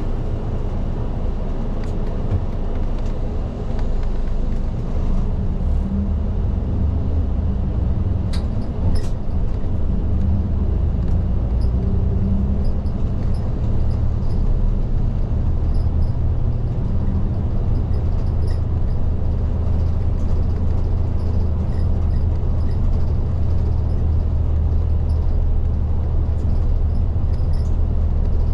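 Isuzu Erga city bus's diesel engine and road noise heard inside the cabin: a steady drone while under way, picking up a little about four seconds in.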